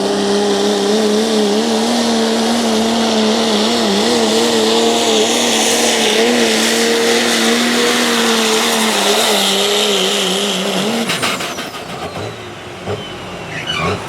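Pulling vehicle's engine running hard at high revs, its pitch holding steady with small wobbles, then dropping away about eleven seconds in.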